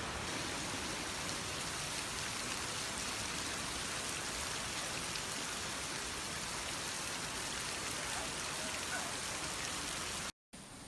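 Heavy rain falling steadily on the ground. Near the end it cuts off abruptly and gives way to a quieter, steady hiss.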